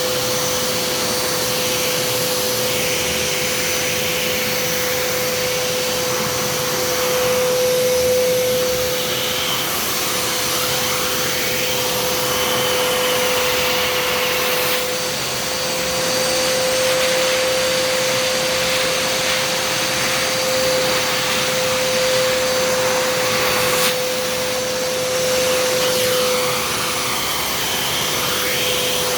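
Kärcher SE 4001 spray-extraction vacuum cleaner running with its suction on: a loud, steady motor whine over rushing air, swelling and easing a little now and then.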